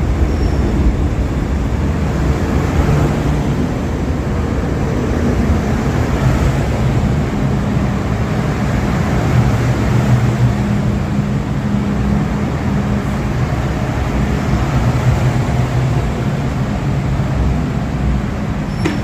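MTR M-Train electric multiple unit running through a station: a steady, loud rumble with low motor hums that drift slightly in pitch.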